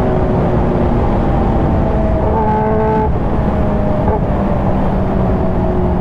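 Kawasaki Ninja H2R's supercharged inline-four engine running at cruising speed, under heavy wind and road rumble. The engine note steps up about two seconds in and drops back about a second later.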